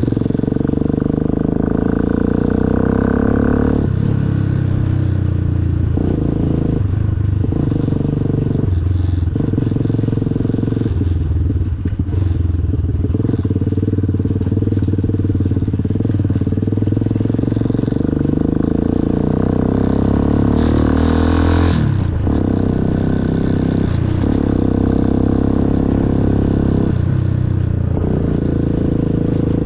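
Motorcycle engine running while riding, its note rising and dropping with throttle and gear changes every few seconds. About twenty seconds in there is a louder rushing noise for a couple of seconds.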